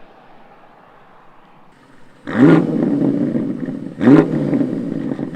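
BMW X5 M Competition's twin-turbo V8 through a valved cat-back exhaust with the particulate filters deleted: quiet at first, then about two seconds in the engine comes in loud with a sharp flare of revs and settles into a steady idle. A quick throttle blip follows about four seconds in.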